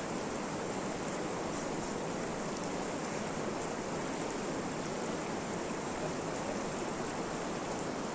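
Steady, even rushing noise with no separate drops, knocks or changes.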